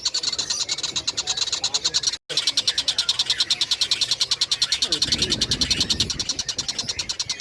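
A recorded tengkek buto kingfisher chattering: a fast, even run of high clicking notes, about a dozen a second, with one very short break just after two seconds. A low rumble comes in about five seconds in.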